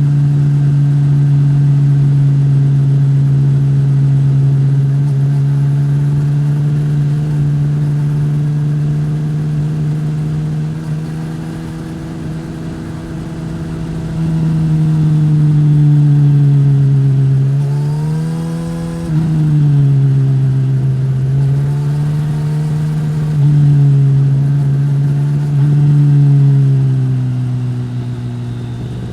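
Suzuki GSX-S1000 inline-four with a Yoshimura R-11 slip-on exhaust running at steady cruising revs. A little past halfway the revs rise and drop quickly, and after that they swing up and down a few times.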